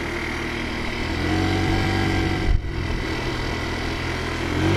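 Taotao 50cc scooter's small four-stroke engine running, its pitch rising briefly about a second in and again near the end, with a short click midway.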